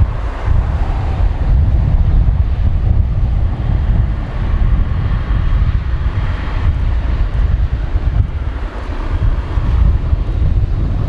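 Wind buffeting the microphone: a loud, gusty low rumble that swells and eases irregularly, over a fainter steady hiss.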